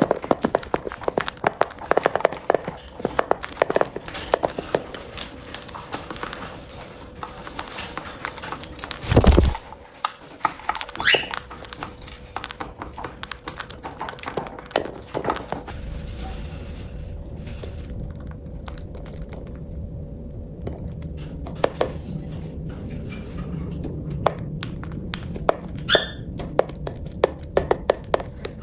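Cockatiels eating: many quick beak clicks and taps on food, with a few short chirps and one louder thump about nine seconds in.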